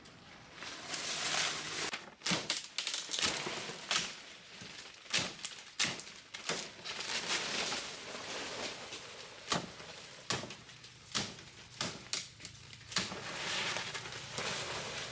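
Irregular rustling with many sharp clicks and knocks scattered through it.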